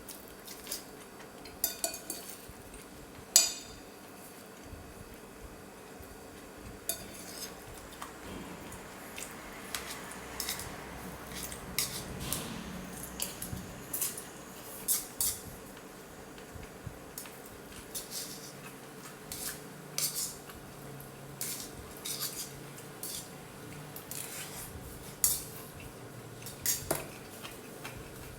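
Spoon and chopsticks clinking against a bowl during eating, in scattered sharp clicks at irregular intervals, the loudest about three seconds in.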